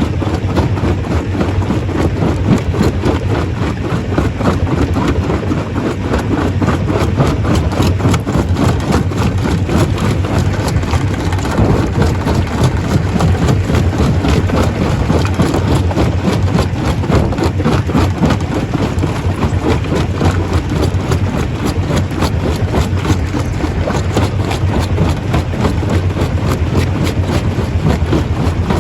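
Stone crusher running steadily: a constant low machine drone with a dense, continuous clatter of rock being broken.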